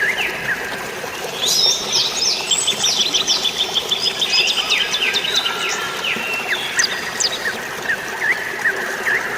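Several birds chirping, with quick runs of repeated high notes that are busiest in the middle and thin out toward the end, over a steady hiss of light rain and flowing water.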